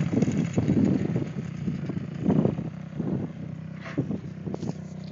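Motorcycle engine idling with a steady low hum, with irregular short bursts of sound over it.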